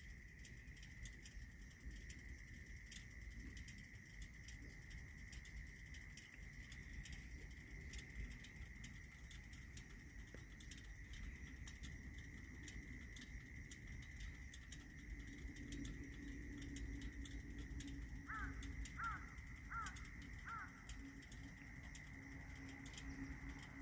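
Quiet outdoor ambience with a faint steady high tone and scattered faint clicks; about three quarters of the way through, a bird calls four times in quick succession, each call short and falling in pitch.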